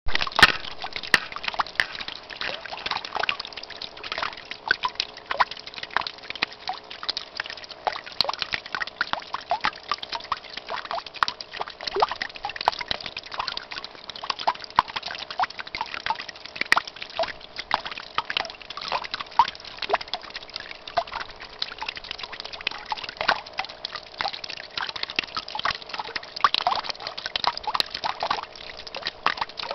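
Water from a small solar-powered fountain splashing and dripping back into its basin: a continuous patter of irregular plops and drips, with a faint steady hum underneath.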